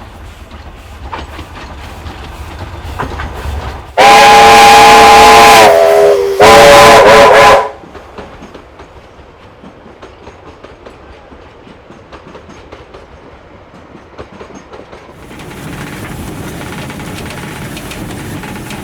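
Steam whistle of an NZR Ww-class tank locomotive sounding two loud blasts about four seconds in: a long one whose pitch sags as it ends, then a shorter one, a chord of several tones. Around them run the clatter of the train on the rails and, near the end, a steadier rushing sound.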